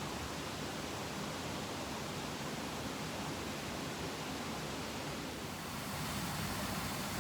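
Mountain stream running steadily, an even hiss of flowing water; the sound shifts slightly and gets a little louder about six seconds in.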